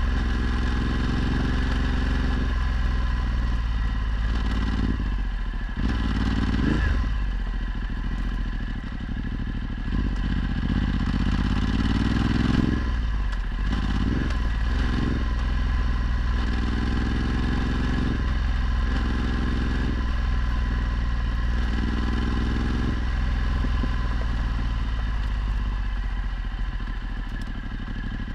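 Ducati Multistrada 1260's V-twin engine through a Termignoni exhaust, accelerating hard through the gears. The pitch climbs and drops back at each shift, repeatedly, with one longer pull in the middle, over a steady low rumble.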